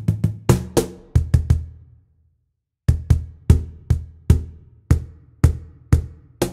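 A drum struck in a quick run of hits, each with a deep ringing decay. The hits stop dead for nearly a second, then resume at a steady pace of about three strikes a second.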